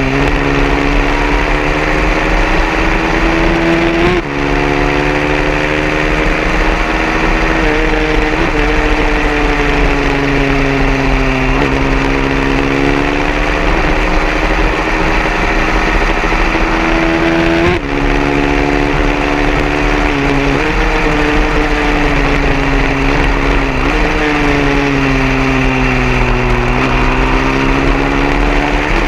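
150cc racing motorcycle engines running hard, their pitch climbing and dropping back again and again as the bikes accelerate and shift. There are brief breaks about four seconds in and near eighteen seconds.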